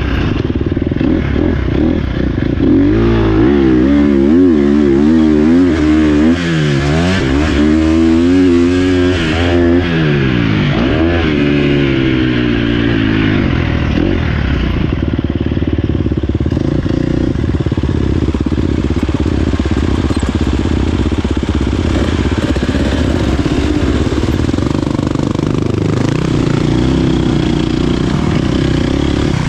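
Dirt bike engine revving up and down over and over with the throttle for the first dozen or so seconds, then running at a steadier pitch.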